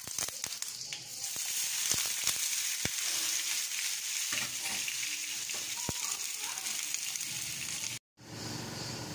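Raw potato sticks going into hot oil in a frying pan, sizzling steadily with sharp crackles as they go in. The sizzle cuts out for a moment near the end, then carries on.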